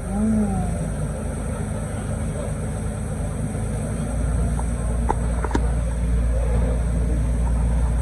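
Canal tour boat's engine running steadily, a low drone that grows louder about halfway through.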